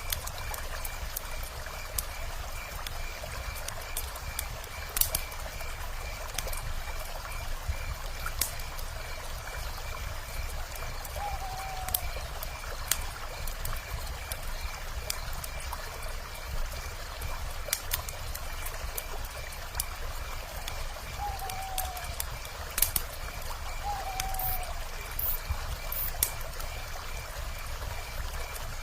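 Campfire crackling with scattered sharp pops, over a river flowing steadily. A steady, evenly pulsing high chirp runs throughout, and a short falling call sounds three times.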